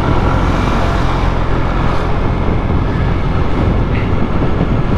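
Motorcycle engine running while riding in traffic, with wind rushing over the microphone.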